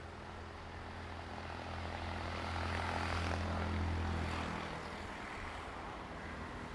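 Diesel train engine drone that grows louder to a peak around the middle and then fades after about four and a half seconds, as the train passes.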